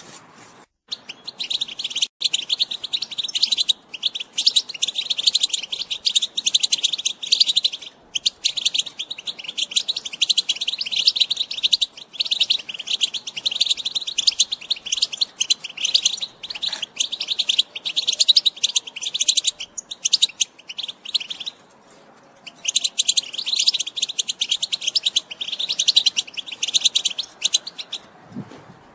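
European goldfinch giving its fast, continuous twittering chatter, the call type goldfinch keepers call "batbata", with a short pause about three quarters of the way through.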